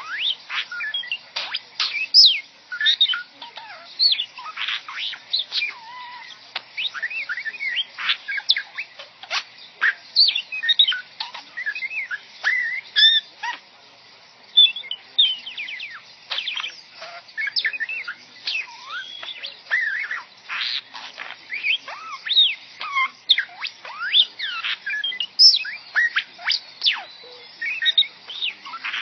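Pet bird chattering without a break in rapid chirps, whistles and quick rising and falling pitch sweeps that sound like R2-D2's beeps, easing briefly about halfway through.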